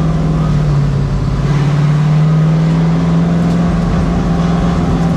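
Race truck engine running at steady revs, one continuous drone that rises slightly in pitch about two seconds in.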